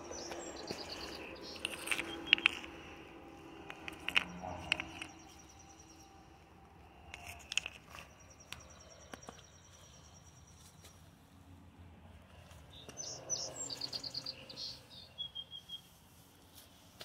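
Songbirds singing: a high, thin trill that comes and goes over the first seven seconds, and a short burst of song about thirteen seconds in. A few sharp knocks stand out over the first five seconds.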